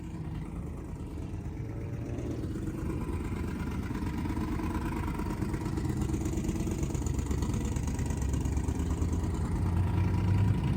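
Car engines running as vehicles drive by, a steady rumble that grows gradually louder.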